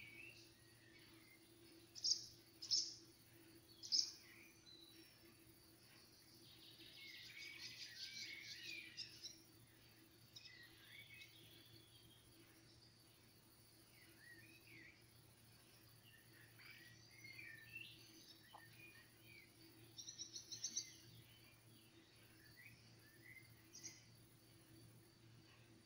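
Wild birds calling and singing faintly, over a faint steady hum. There are three sharp calls a couple of seconds in, a rapid trill around a third of the way through, and a quick run of repeated notes later on.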